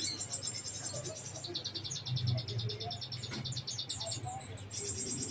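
Small songbirds giving high, fast, evenly pulsed trills. The trill drops to a lower pitch about a second and a half in, breaks off briefly near the end, then resumes higher, over a low steady hum.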